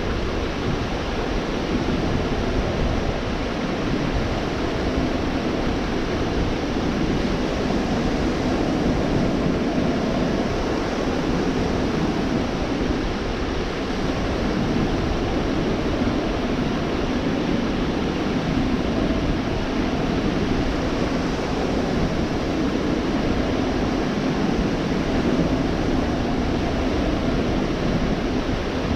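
Gulf of Mexico surf breaking and washing along the beach in a steady, continuous rush, with slow gentle swells in level.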